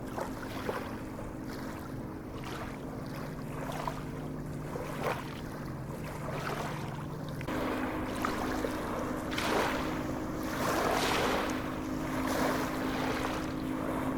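Sea waves washing and breaking, swelling louder about halfway through, over a steady low hum.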